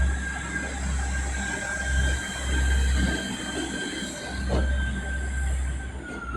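A train moving through the station with a steady high-pitched squeal over a deep, pulsing rumble. A sharp knock comes about four and a half seconds in.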